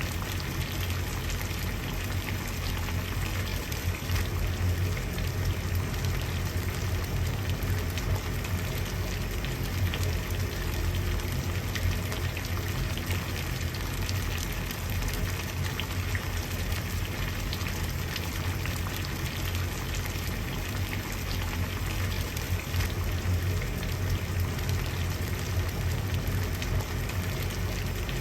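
Water at a rolling boil, bubbling steadily with a dense patter of small pops over a low rumble.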